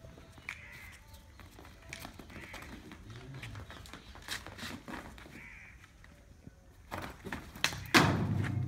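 Short harsh bird calls every second or two, over scattered scuffs and taps of footsteps and hooves on brick paving. Near the end a sudden loud knock is followed by a low steady sound.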